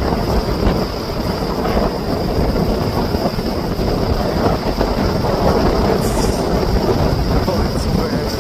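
Strong wind buffeting the microphone in a steady, heavy rumble, mixed with choppy lake waves washing and breaking.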